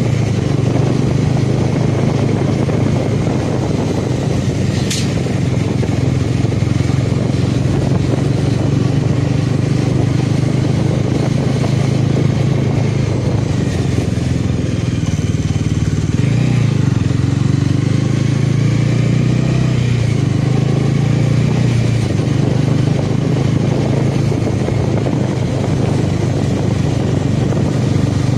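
Motorcycle engine running at a steady cruising speed under the rider's onboard microphone, with road and wind noise. A brief sharp click comes about five seconds in.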